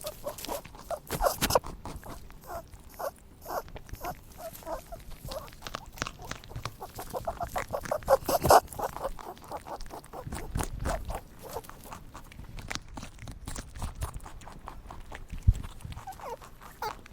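Rabbits making many short clicks and scuffles, with brief squeaky grunts now and then.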